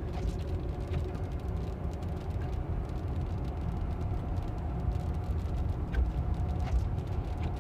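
Steady low road and tyre rumble heard inside the cabin of a Tesla driving at about 30 mph on a rain-wet road, with a couple of faint clicks.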